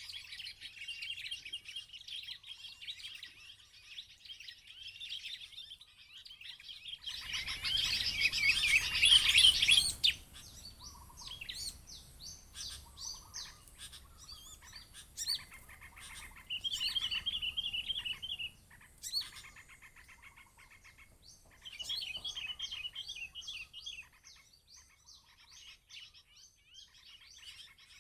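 Rapid, high chirping and trilling calls of bar-winged prinias (ciblek batik), in repeated phrases that start and stop. About seven seconds in, a louder, noisy burst with a low rumble lasts some three seconds.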